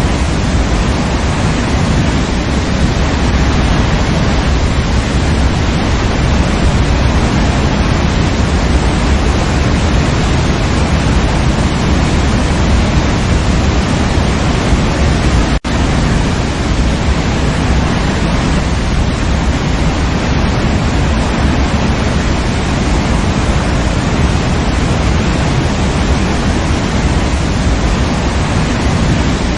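Waterfall rushing in a steady, dense roar of falling water, with a momentary dropout about halfway through.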